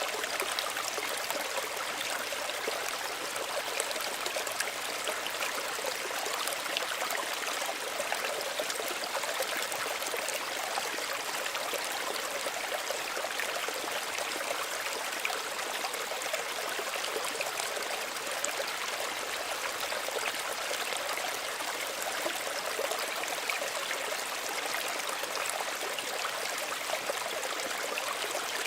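Small stream of running water, flowing and trickling steadily with fine splashing.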